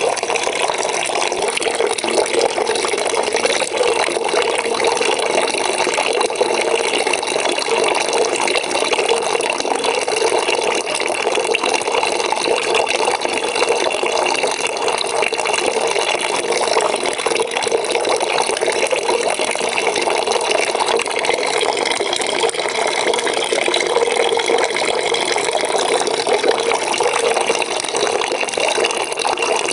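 Water running steadily into a bucket, a constant splashing rush.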